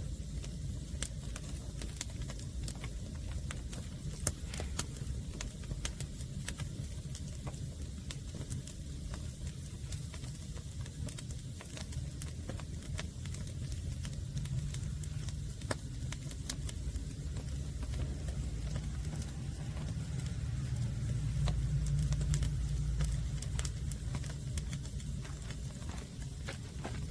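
Wood fire of freshly cut green logs crackling, with irregular sharp pops over a low rumble that swells about twenty seconds in.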